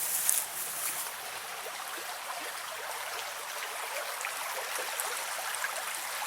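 Creek water flowing steadily, a low even rush, with a footstep crunching in the leaves just at the start.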